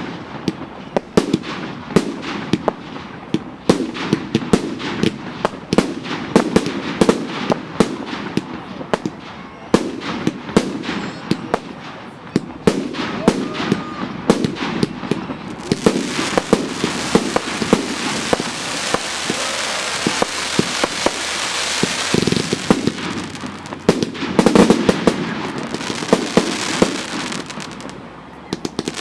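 Fireworks going off: a rapid string of sharp bangs and cracks through the first half, then from about halfway a continuous crackling hiss with occasional bangs.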